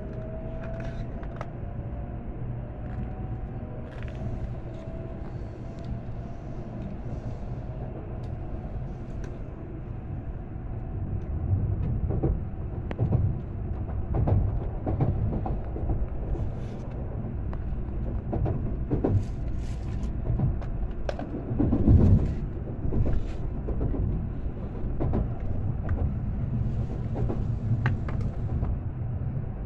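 Train running, heard from inside the carriage: a steady low rumble with a faint motor whine in the first few seconds. It grows louder about twelve seconds in, with a few thumps along the way.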